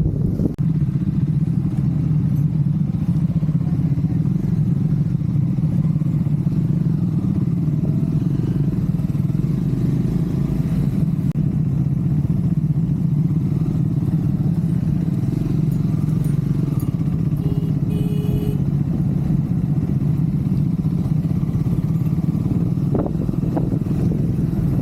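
Triumph Scrambler 400 X's single-cylinder engine running steadily as the motorcycle cruises.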